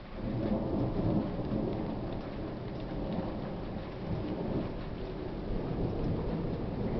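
Thunder rolling in suddenly and rumbling on, loud and uneven, over steady rain.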